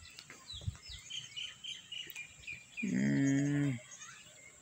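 Small birds chirping in short, scattered calls. About three seconds in, a man makes a held vocal hesitation sound lasting about a second.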